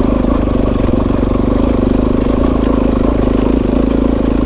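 Suzuki DR-Z400S single-cylinder engine running steadily at a constant speed while the bike is ridden along a trail.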